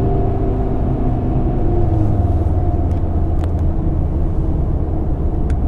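Audi TT RS's 2.5-litre turbocharged five-cylinder engine, heard from inside the cabin with the sport exhaust valves open, running steadily at cruising revs with a deep low tone. A couple of faint clicks come in the second half.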